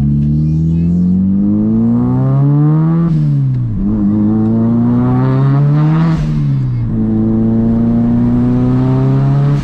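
A 1.8-litre turbocharged four-cylinder engine in an Audi Quattro accelerating hard under full boost with no boost control. Its note climbs through three gears with two upshifts, and there is a brief hiss at the second shift.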